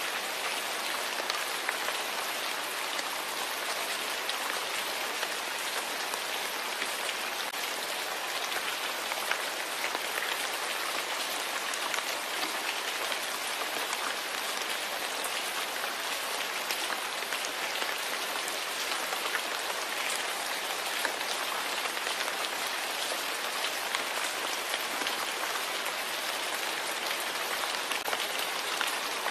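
Steady rain falling, an even hiss of many small drops that does not change.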